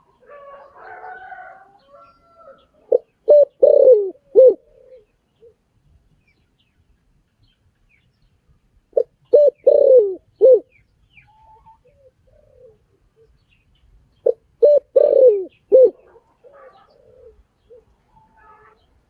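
Spotted dove cooing: three phrases of about four low, hooting coos, repeated roughly every six seconds. Faint higher chirping from other small birds comes in the first couple of seconds.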